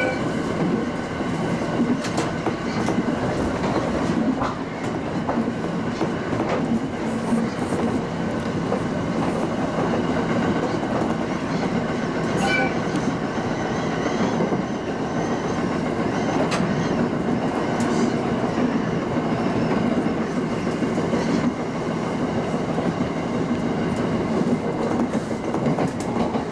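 Local passenger train running along the track: a steady rumble of wheels on rail, with the clickety-clack of the wheels passing over rail joints.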